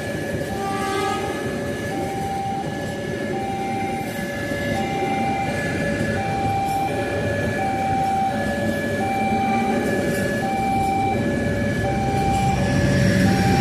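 Railway level-crossing warning alarm sounding a steady repeating electronic two-tone pattern, over the rumble of a train that grows louder near the end.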